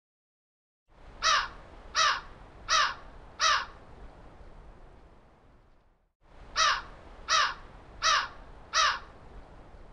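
A bird calling harshly four times in a row, about one call every three-quarters of a second, then another run of four calls a few seconds later.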